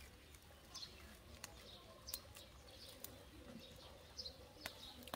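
Near silence with faint, scattered bird chirps and a few small sharp clicks.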